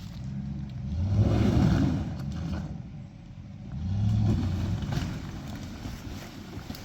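GMC Z71 pickup truck's engine running under load, revving up hard twice, about a second in and again about four seconds in, easing back in between.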